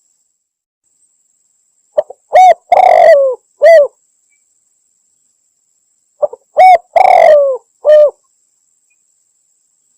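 Spotted dove (tekukur) cooing in a lure recording, said to be a female calling a male. Two call phrases come about four seconds apart, each a few short coos and one long coo that falls in pitch, with dead silence between them.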